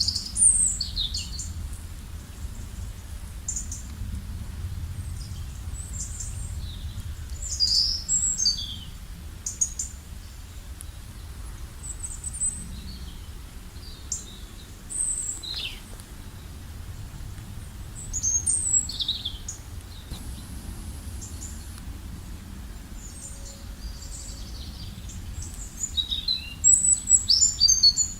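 Several songbirds chirping and calling in short, quick phrases, busiest near the start, around a third and two-thirds of the way in, and near the end, over a steady low rumble.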